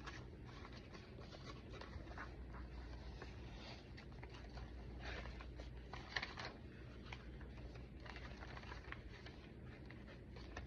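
Faint rustling and light tapping of paper pages and tucked-in paper items being handled, over a low steady hum.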